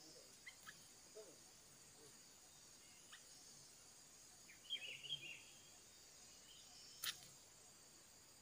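Faint steady buzz of insects, with a small bird giving a few short chirps, a quick burst of them about five seconds in. A single sharp click comes near the end.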